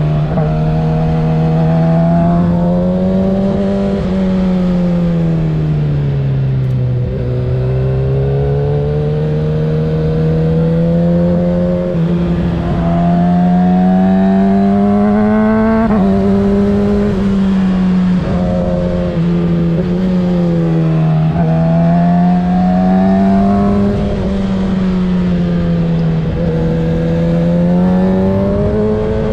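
Kawasaki ZX-6R 636's inline-four engine through a Graves aftermarket exhaust, ridden on the road. The engine note rises and falls repeatedly as the throttle is opened and eased off, with a few quick drops in pitch at gear changes.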